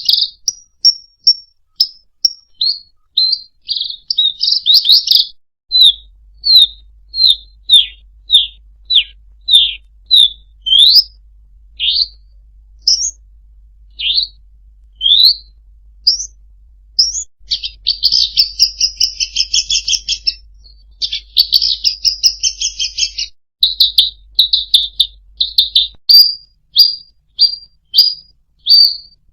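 Songbird song from a masteran (bird-tutoring) recording: a long run of sharp, clear whistled notes, some rising and some falling, about two a second, broken by a dense rattling trill a little past the middle, then quicker repeated notes near the end.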